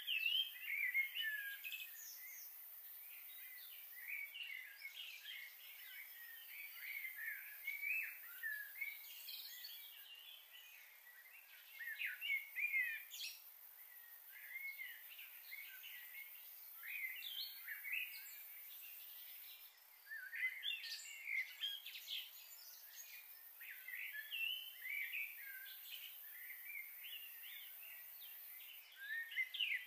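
Small birds chirping and twittering in clusters of quick, bending calls, over a steady high hiss.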